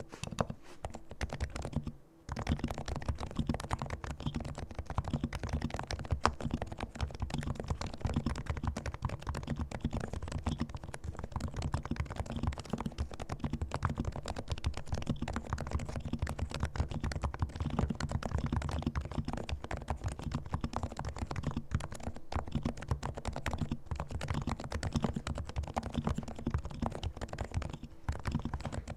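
Fast, continuous typing on a Realforce R2 silent keyboard with fully lubricated Topre capacitive switches, the keystrokes dull and muted. There is a brief pause about two seconds in.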